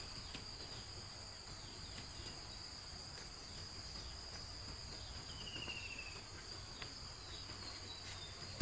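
Steady chorus of insects, crickets or similar, holding two high-pitched tones without a break, with a short trill, likely a bird, about halfway through.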